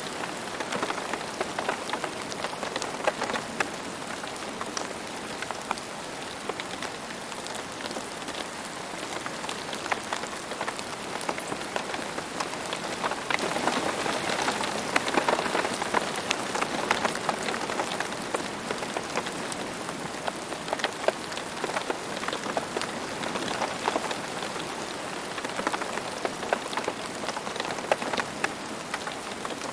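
Steady rain falling on a hard surface, a constant hiss dotted with many individual drop ticks, easing back a little after a slightly heavier spell around the middle.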